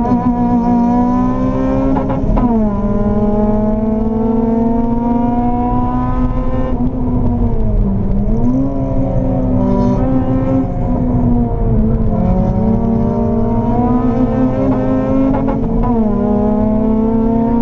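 Honda Civic Type R EP3's four-cylinder K20 engine, heard from inside the cabin, pulling hard on track: its pitch climbs steadily, drops sharply about two seconds in and again near the end at each upshift, and dips briefly twice in the middle as the driver eases off before pulling again.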